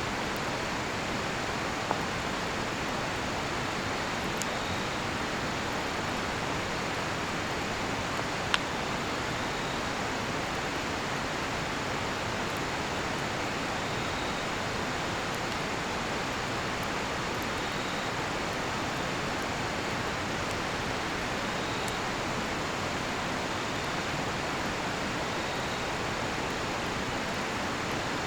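Steady rush of a nearby river, with a cedar-wood campfire giving a few sharp pops, the loudest about eight and a half seconds in. Faint high cricket chirps recur every couple of seconds.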